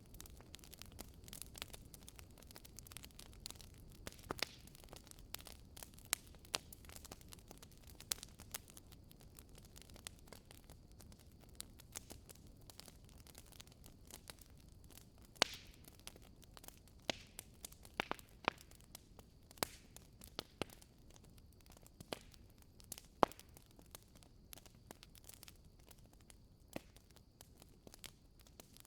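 Wood fire in a fireplace crackling: irregular sharp pops and snaps over a low steady rush of burning, with the loudest pops about 15 and 23 seconds in.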